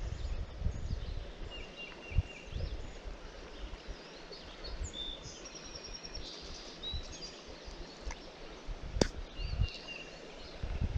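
Several songbirds chirping and singing, one of them a quick trill heard twice, over an uneven low rumble, with a single sharp click about nine seconds in.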